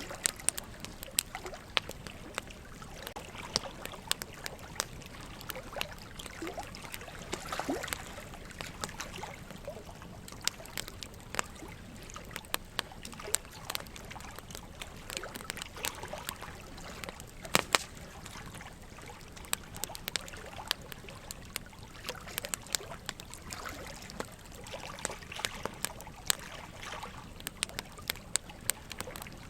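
Wood logs burning in a fireplace, crackling with sharp, irregular pops, the loudest about halfway through, over a steady trickle of running water.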